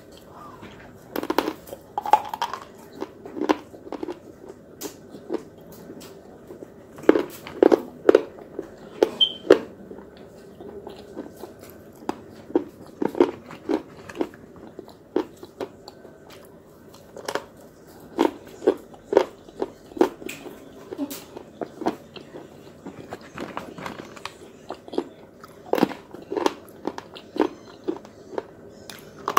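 Thin, hard white sticks being bitten and chewed close to the microphone: sharp, irregular crunches that come in clusters with short pauses between.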